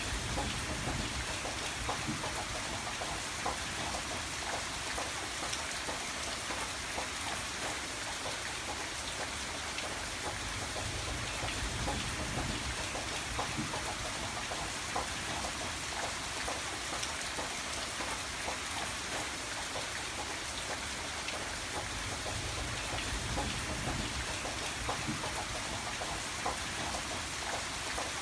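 Steady heavy rain, a dense patter of drops over an even hiss, with a low rumble underneath that swells and eases every several seconds.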